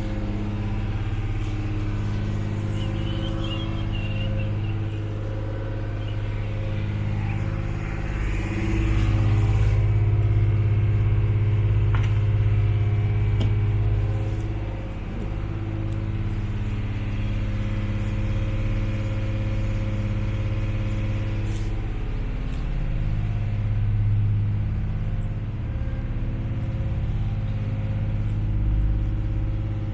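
A boat's engine running steadily, a low hum with overtones that grows a little louder for several seconds near the middle.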